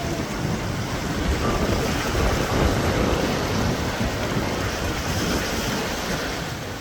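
Strong wind buffeting the microphone over waves surging and breaking in a bay, a steady roar of surf that swells a little about two to three seconds in.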